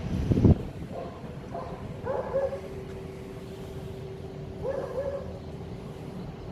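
A short low rumble at the start, then two brief bursts of short animal calls, about two and a half seconds apart, over a steady low hum.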